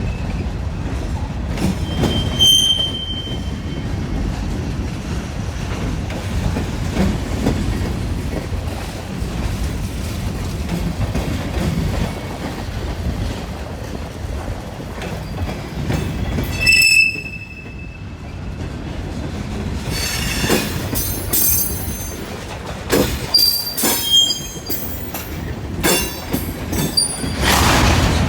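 BNSF freight cars rolling past with a steady low rumble. Brief high wheel squeals come about 2 seconds in and again after about 17 seconds, and a run of sharp clacks sounds from wheels crossing rail joints in the last several seconds.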